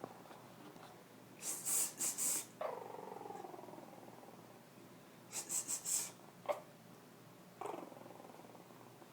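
Young Chihuahua puppies grumbling and growling: a small falling growl about three seconds in and another near the eight-second mark, with quick groups of three or four breathy huffs in between.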